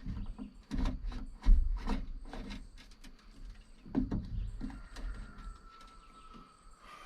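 Wiring being pulled by hand through a rubber grommet: a run of rustles, scrapes and knocks, with a sharp knock about a second and a half in and another about four seconds in, then quieter handling.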